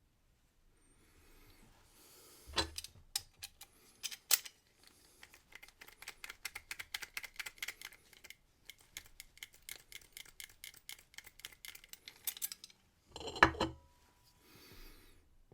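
Brass key blank being worked in a Yale and Towne wafer cam lock and filed while impressioning a key. It makes a long run of quick, small metal clicks and scrapes, several a second, with a few louder knocks about two and a half, four and thirteen seconds in.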